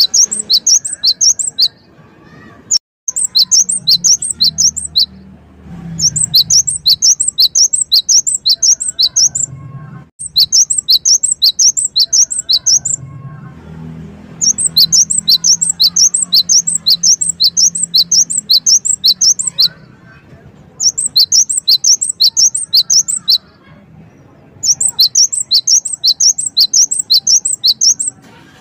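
Gelatik wingko (cinereous tit) singing: rapid trains of high, sharp notes at about six a second, in bursts of two to four seconds with short pauses between them.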